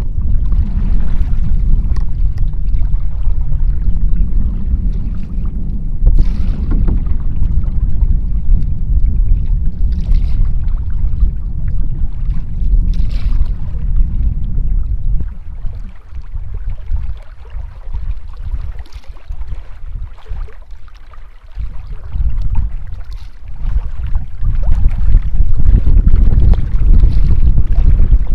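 Canoe paddle strokes swishing through the water, heard under a heavy rumble of wind on the microphone. The wind rumble eases for several seconds past the middle, then returns.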